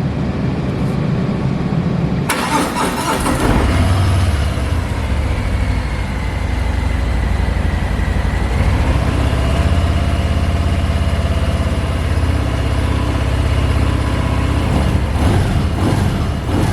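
A 2022 Harley-Davidson Fat Bob's 114 cubic inch Milwaukee-Eight V-twin starts up about two seconds in. It then settles into a steady idle through the stock dual exhaust, a light roar.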